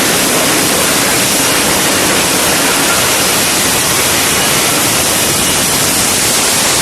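Steady, loud roar of an F-35B's jet engine: an even, hiss-like rush of noise with no change in pitch or level.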